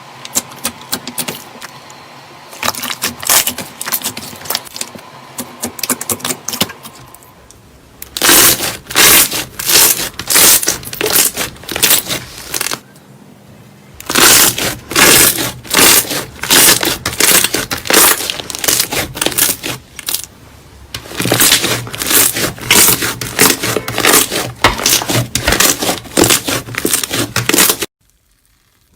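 Slime being played with, making dense runs of crackling, popping clicks. The clicks are softer for the first several seconds, then come in loud stretches with brief pauses, and stop suddenly near the end.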